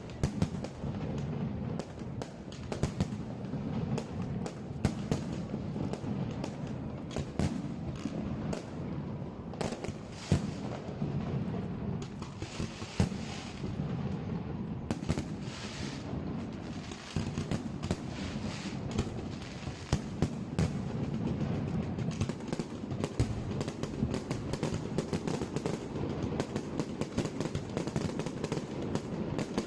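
Aerial fireworks going off: a steady run of irregular bangs and pops, with stretches of crackling about halfway through.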